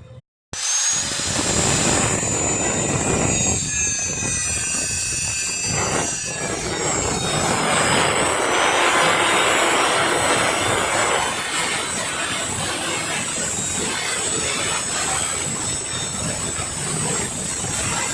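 Motorcycle engines running loud and rough through a single shared exhaust pipe, starting abruptly about half a second in and holding steady.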